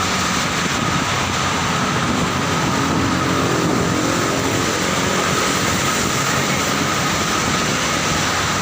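Steady noise of rain and road traffic going by, even and unbroken.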